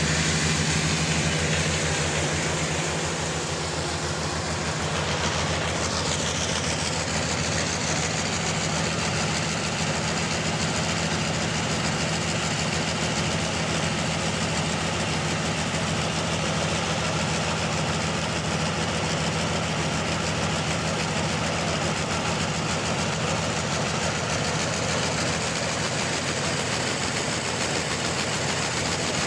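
Sawmill running steadily while sawing a large trembesi (rain tree) log, with a low drive hum under the noisy rush of the cut. A brief high whine falls in pitch about six seconds in.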